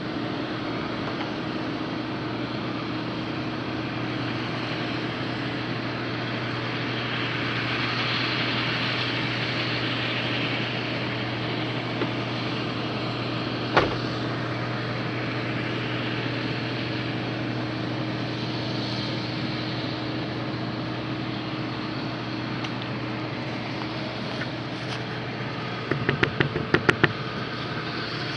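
IH 2577 combine harvester running steadily while cutting wheat, with a constant engine drone. There is a single sharp click about halfway through and a quick run of clicks near the end.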